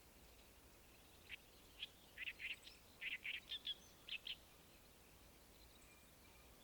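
A small bird calling: a quick run of about a dozen short, sharp chirps starting about a second in and stopping a little past the middle, over faint outdoor background.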